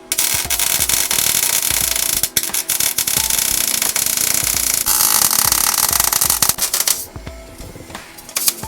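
MIG welder arc welding steel, a steady, loud crackling sizzle that stops about seven seconds in, followed by scattered quieter clicks.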